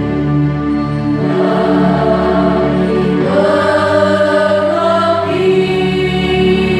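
Mixed choir singing in rehearsal, holding long sustained notes; the voices move to a new, higher chord about three seconds in.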